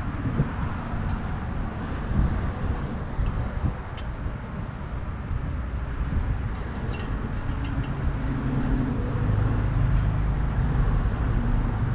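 Steady low rumble of road traffic, with a few short, light clicks of metal parts being handled and a low vehicle hum that grows in the last few seconds.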